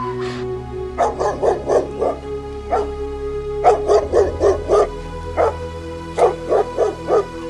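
A dog barking in rapid runs of five or six short barks, with single barks between the runs, over steady background music.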